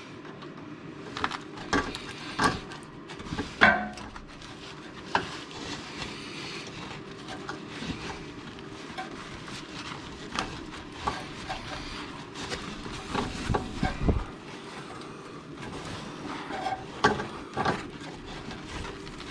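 A screwdriver clinking, scraping and knocking against an exhaust hanger and its bracket while prying the hanger off its nub, in irregular sharp knocks, the loudest about three and a half seconds in. A steady low hum runs underneath.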